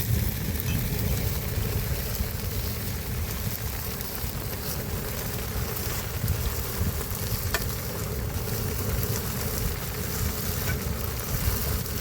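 Steady rushing of a mountain river in flood after heavy rain, with a low rumble underneath.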